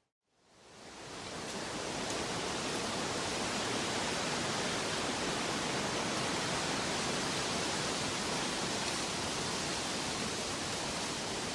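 A steady, even rushing noise with no tones or rhythm, fading in from silence over about the first second and a half and then holding level.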